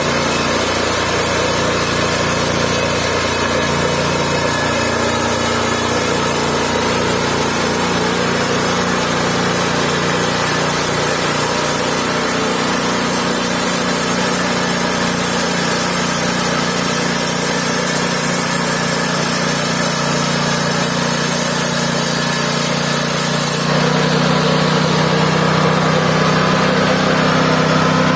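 Mobile band sawmill running steadily. About three-quarters of the way through, its pitch shifts and it gets a little louder.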